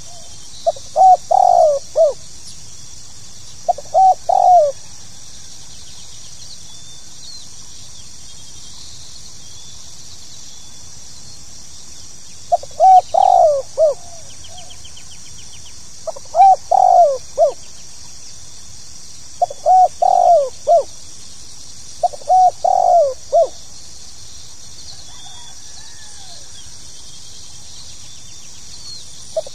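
Spotted dove (tekukur) cooing: a phrase of several quick notes, repeated six times with pauses between, two close together near the start and four more in the second half.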